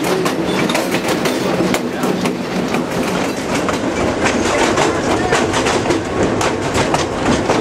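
Passenger train rolling along, its wheels clicking and clattering over the rail joints in a fast, irregular series over a steady rumble and rush.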